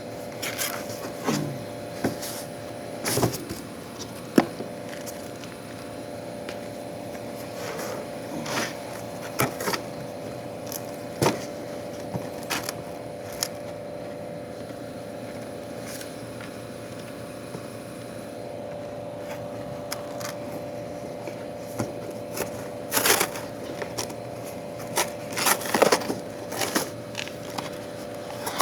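Irregular clicks, knocks and scrapes of tools and metal parts being handled during an exhaust fan motor swap, over a steady machine hum.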